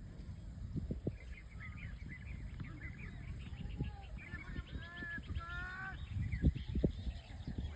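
Birds calling in a run of short, pitched calls, thickest about five seconds in, over a low rumble.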